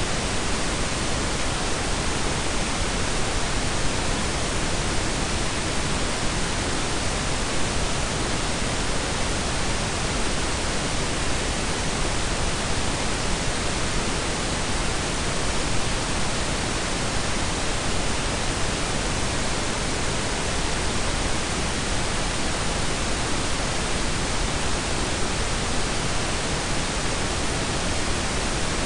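Steady blend of pink and brown noise, an even hiss with a deep rumble beneath it, unchanging throughout.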